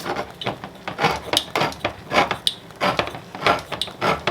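Metal can of beans and a kitchen utensil scraping and rubbing in repeated rasping strokes, about two or three a second, with a few brief high squeaks.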